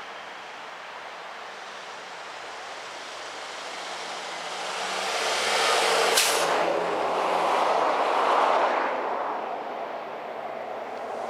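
Long FEC freight train of tank cars rumbling past, mixed with road traffic; the noise swells over the middle and eases near the end, with one sharp click about six seconds in.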